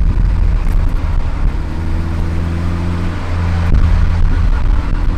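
Car engine and exhaust running steadily while driving, a low drone, with a short thump about three and a half seconds in.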